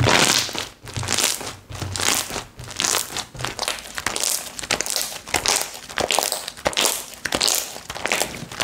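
Slime being pressed and squished by hand, making repeated crinkling, crackling sounds about twice a second.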